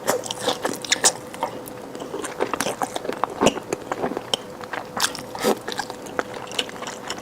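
Close-miked mouth sounds of a person chewing food: irregular wet smacks and clicks of biting and chewing.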